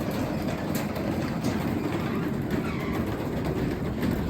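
Craftsman 3/4 hp belt-drive garage door opener running the door along its track, a steady rumble with the rollers clattering faintly.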